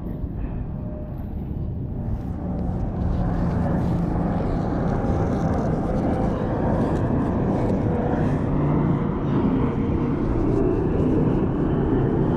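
A steady engine rumble that builds over the first three seconds and then holds.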